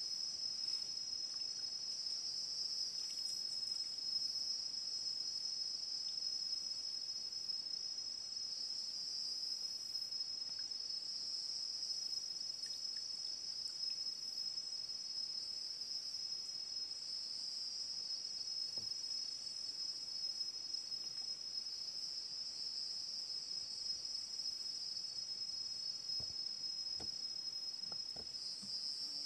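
Chorus of forest insects: a steady high-pitched drone that swells and eases every few seconds.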